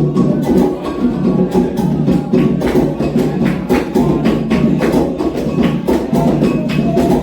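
Candomblé atabaque drums and agogô bell playing a steady, fast ritual rhythm, the rum for Oxum and Logun Edé.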